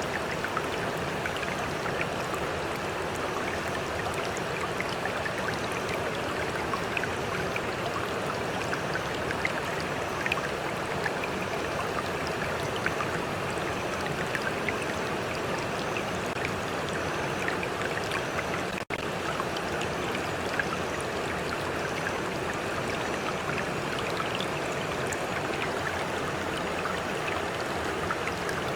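Stream water flowing with a steady rushing sound, flecked with small splashes and droplet ticks. The sound cuts out for an instant about two-thirds of the way through.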